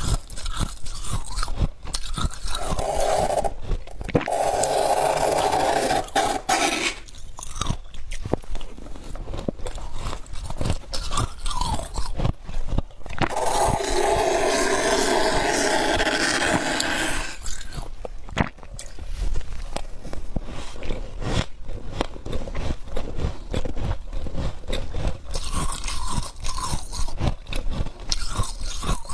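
Close-up crunching and chewing of thick humidifier frost in the mouth: many irregular crisp crunches, with two longer stretches of steadier, continuous sound.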